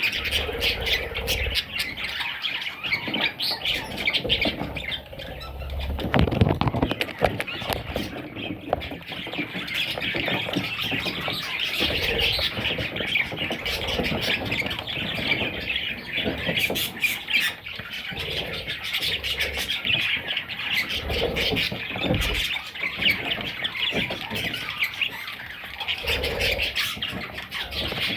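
Budgerigar chicks squawking and chirping in a continuous, rapid chatter, with a few low bumps underneath.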